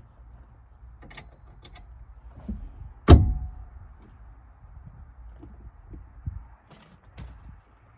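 Light clicks and taps of metal hardware, then one loud metallic clank about three seconds in with a short ring, from work fitting a Jeep's harness support bar.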